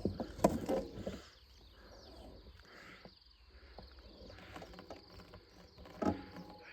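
Insects trilling steadily at a high pitch, with a cluster of louder knocks and rustling in the first second and a short, sharp sound about six seconds in.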